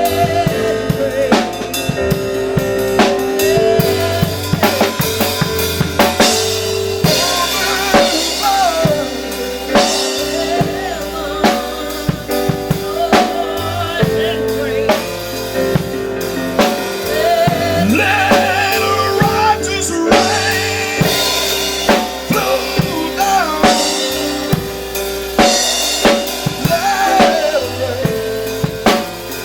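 Live gospel church music: a drum kit playing a beat with snare, bass drum and rimshots, over held keyboard chords and a bass line, with a wavering melody line above.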